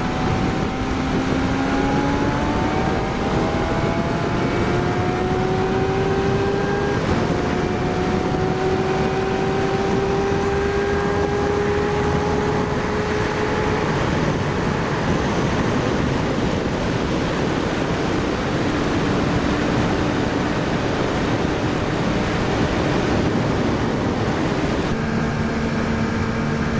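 Inline-four sportbike engine at road speed, its pitch climbing slowly with shifts about three and seven seconds in, then easing off about halfway and holding steady. Heavy wind rush on the microphone runs under it throughout.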